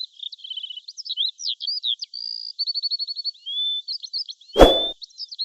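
Songbird chirps, trills and short whistles in quick succession, with one loud thump about four and a half seconds in.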